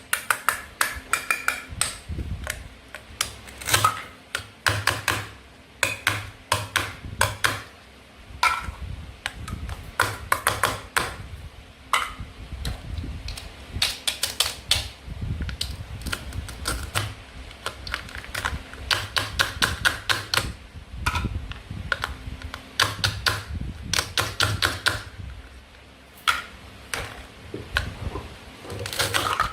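Toy play-food pieces and a toy knife clicking and tapping against each other and a cutting board, in rapid irregular runs of sharp clacks with brief pauses between them.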